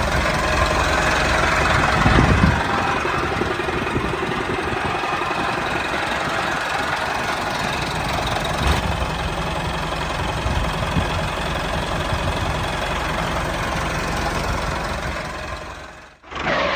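Mini tractor's small engine running steadily with a knocking beat, fading out near the end.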